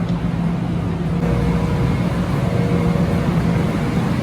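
Metro-North commuter train running: a steady rumble with a low motor hum, joined about a second in by a thin, higher steady whine.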